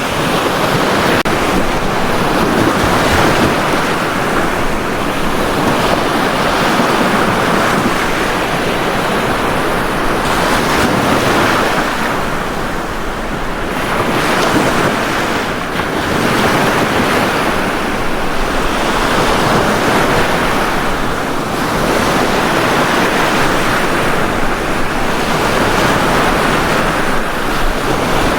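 Ocean waves washing onto a beach, a continuous surf noise that swells and eases every few seconds.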